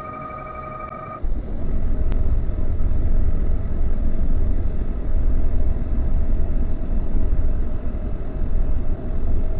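A steady electronic beep lasts about a second. Then a loud low rumble starts suddenly and carries on, with a faint, steady high-pitched whine above it: a monorail car running.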